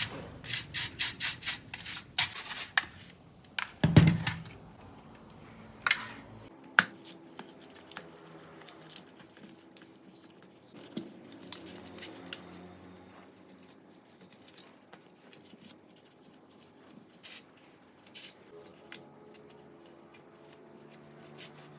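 Hand-scrubbing of a dirty ceiling fan's parts: brisk rubbing strokes, about four a second, for the first few seconds. A loud knock follows about four seconds in, then a couple of sharp clicks and quieter, scattered handling and rubbing sounds.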